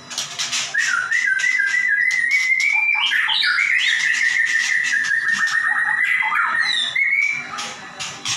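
White-rumped shama (murai batu) in full, continuous song: whistled phrases that glide and hold around one pitch, mixed with rapid harsh rattling notes, the 'gacor nembak' style of a bird in top singing form.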